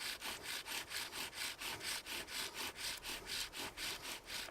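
Hand saw cutting through wood in quick, even back-and-forth strokes, about four a second.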